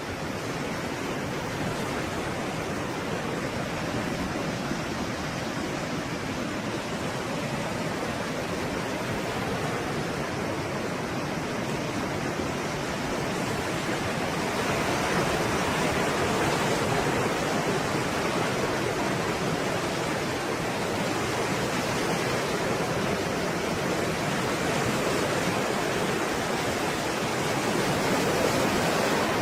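Stormy sea waves breaking: a continuous rush of surf that swells louder about halfway through and again near the end.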